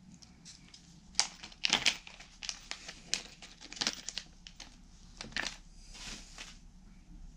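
Packaging being handled and crinkled in irregular rustling bursts, loudest about a second and a half in.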